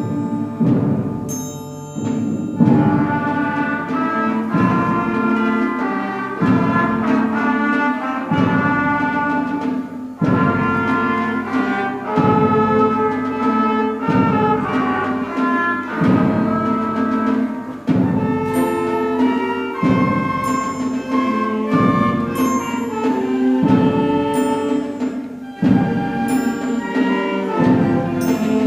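School concert band playing a stately piece in a 3/4 feel: a sustained melody over heavy low strokes about every two seconds.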